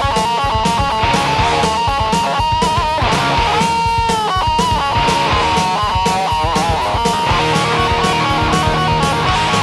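Rock and roll song in an instrumental break: an electric guitar plays a lead line with bent notes and a long held note about four seconds in, over steady drums and bass.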